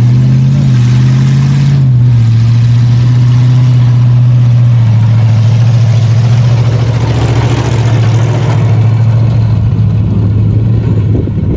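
A large vehicle engine running loudly with a steady low drone. Its pitch rises and dips slightly in the first two seconds, then holds steady until it drops away just before the end.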